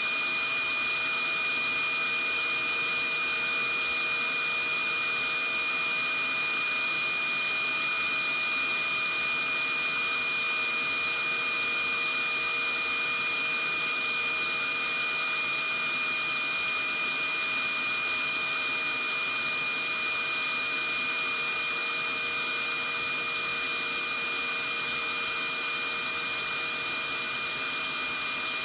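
Vacuum cleaner running steadily: a constant airy hiss with a high whine from the motor, unchanging throughout.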